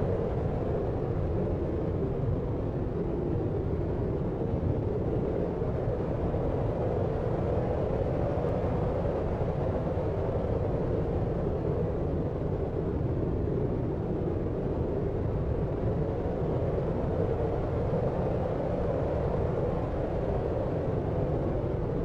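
Deep sleep-aid noise, a steady, even rumbling hiss weighted to the low end with little treble, unchanging throughout.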